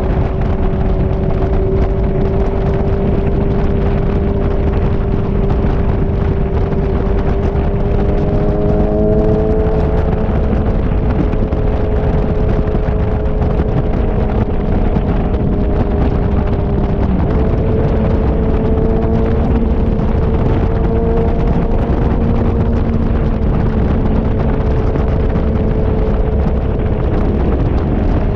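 Liter-class inline-four sport bike engine cruising at freeway speed under steady throttle. Its note steps up slightly about nine seconds in and again about seventeen seconds in, with heavy wind rushing over the microphone underneath.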